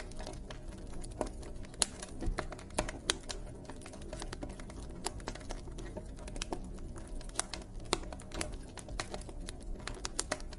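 Wood fire crackling: irregular sharp pops and snaps, several a second, over a low steady hiss of burning.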